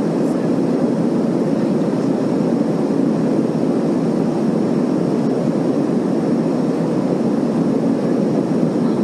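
Steady drone of an airliner's engines and airflow heard inside the passenger cabin in flight, a deep, even rumble with no change.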